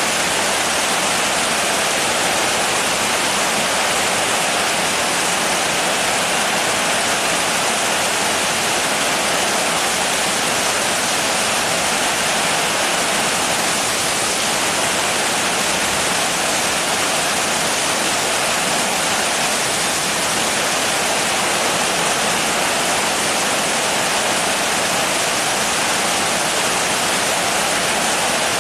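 Steady, dense rain falling as an even hiss, with no single drops or patter standing out.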